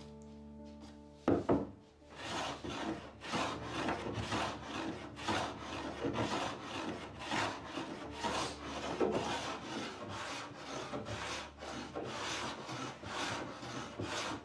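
Wax being rubbed by hand into a wooden door in quick, even back-and-forth strokes, about two a second, after a sharp knock just over a second in.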